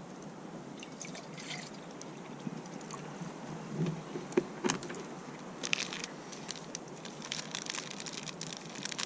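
Water being poured and sloshed into a titanium camping cup for boiling, with scattered light clinks and knocks of the metal, more of them in the second half.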